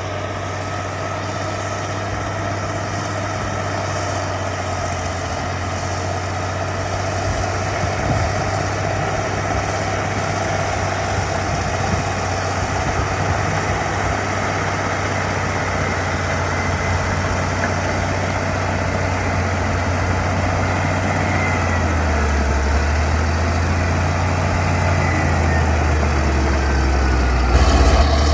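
Heavy diesel earthmoving machinery running steadily, slowly growing louder; about three-quarters of the way through, the deep engine note drops and shifts.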